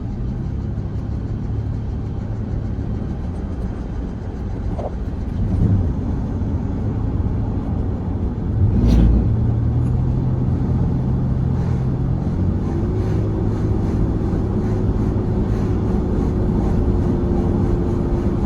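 A car driving, with steady low road and engine rumble. A single thump about nine seconds in and a lighter one near six seconds, like wheels going over bumps, and a steady hum that joins in for the last third.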